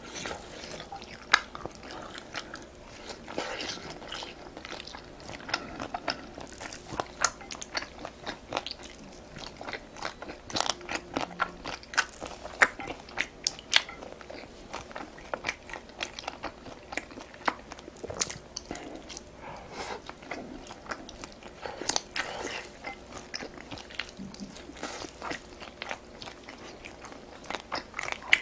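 A person chewing and biting food, with many irregular short crunchy and wet mouth clicks.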